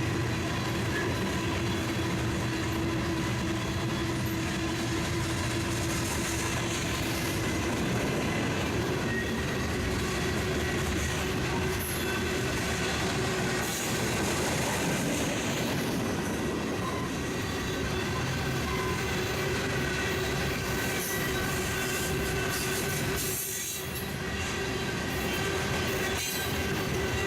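Freight train rolling past, its cars making a steady rumble and clatter with steady high-pitched wheel squeal running through it.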